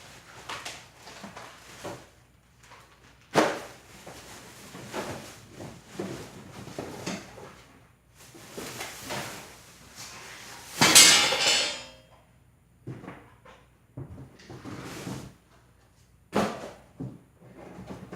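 Cardboard box and packaging being opened and handled: irregular scrapes, knocks and rustles, with a louder tearing or scraping burst about eleven seconds in.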